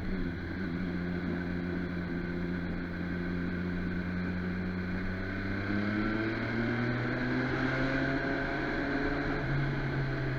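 MV Agusta Brutale motorcycle engine running under way. Its note holds steady, then rises about halfway through as it accelerates, with another step up near the end.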